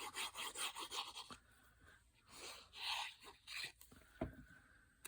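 Paper being handled and rubbed on a craft table: a run of quick scraping strokes, then a few longer rubs, and a single sharp tap near the end.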